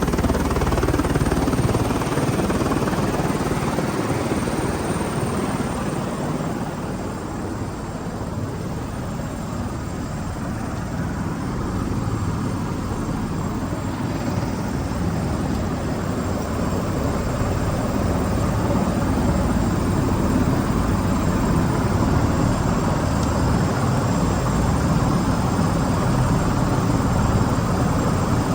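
Helicopter running, a steady drone of engine and rotor. It dips slightly about a quarter of the way through and then builds again.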